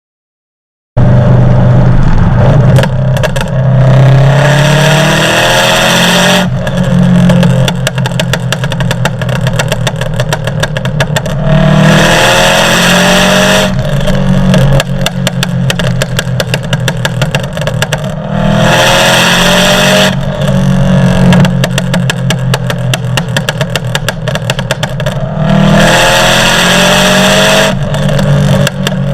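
Turbocharged Subaru Forester STI flat-four engine accelerating hard, four times over. Each climb in revs ends in a burst of hiss from its Go Fast Bits blow-off valve as the throttle shuts. The valve's preload spring is tightened to try for turbo flutter.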